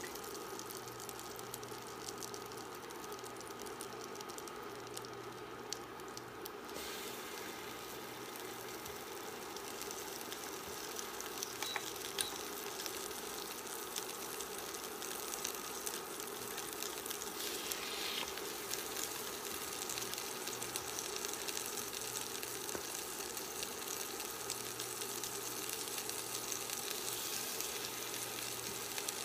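Eggnog-dipped bread frying in melted butter: a steady sizzle with fine crackling, which gets fuller a few seconds in.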